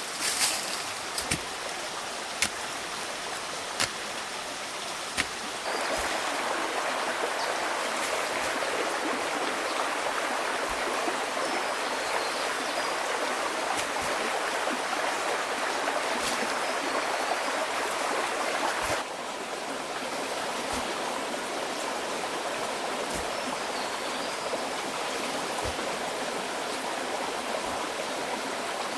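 Stream water flowing in a steady rush. It gets suddenly louder about six seconds in and drops back just as suddenly near nineteen seconds. A few sharp clicks and knocks sound over it, mostly in the first few seconds, along with a few faint high chirps.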